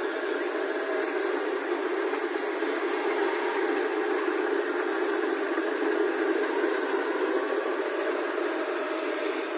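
Kubota rice combine harvester running with a steady, unbroken mechanical noise.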